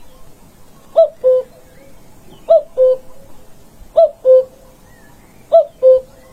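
A bird giving a two-note call four times, about every one and a half seconds: a first note that rises and falls, then a shorter, lower level note.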